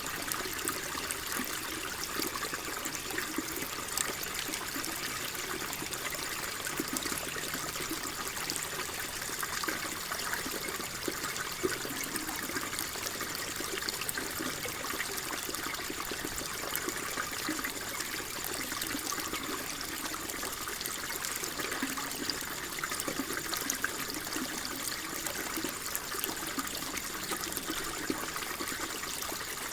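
Water flowing and trickling steadily, a continuous even rush with fine splashing detail.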